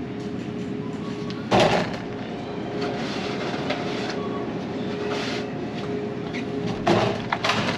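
A shopping cart rolling and rattling through a grocery store over a steady refrigeration hum, with two louder clatters, one about a second and a half in and another near the end.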